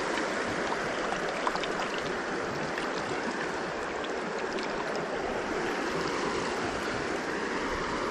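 Small creek running over stones: a steady rush of flowing water with a few faint splashes.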